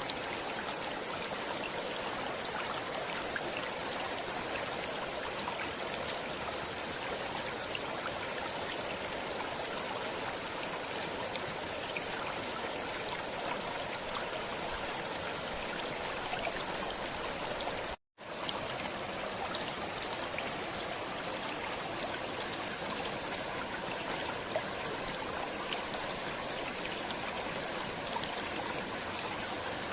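Stream water flowing and trickling steadily. The sound cuts out for a split second about eighteen seconds in, then carries on unchanged.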